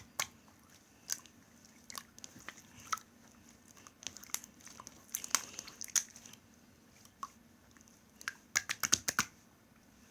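Homemade slime being squished and pressed in the hands, giving sharp little clicks and pops about a second apart, with a quick run of several pops near the end.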